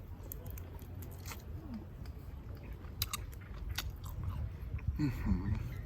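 A person biting into and chewing a cooked river prawn, with scattered sharp crunching clicks from the shell and flesh.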